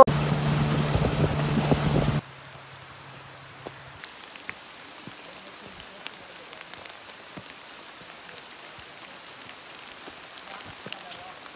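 A loud rushing noise with a low steady hum for about two seconds that cuts off abruptly, followed by a faint steady hiss with scattered light ticks.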